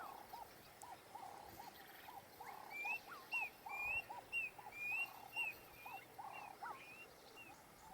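Male Klaas's cuckoo giving its territorial call: short whistled notes repeated about twice a second. A lower run of short repeated calls goes on underneath, and the higher whistles join in about three seconds in.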